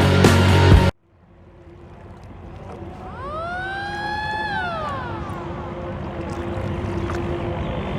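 Background music cuts off about a second in. A boat's engine and water noise then fade up with a steady hum. Near the middle a single siren wail rises, holds and falls away over about two seconds.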